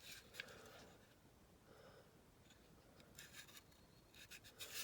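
Faint, intermittent scratching of a small wire brush scrubbing a die-cast metal toy car, in short strokes that come more often near the end.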